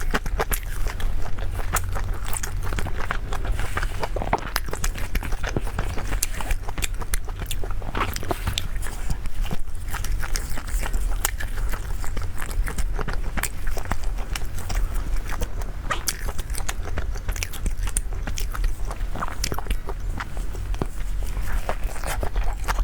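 Close-miked eating: irregular chewing and biting clicks, over a steady low hum.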